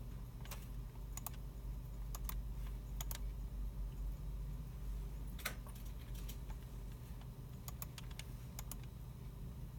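Scattered computer keyboard keystrokes and mouse clicks, a few at a time in short clusters with gaps between, one louder click about halfway through. A steady low hum of the room's machines runs underneath.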